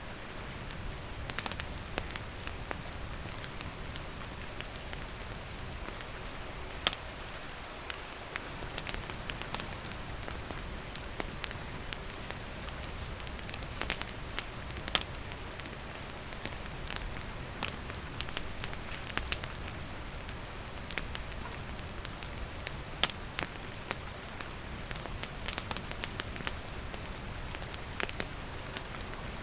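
Steady rain falling, with a wood campfire crackling: scattered sharp pops and snaps over an even hiss of rain.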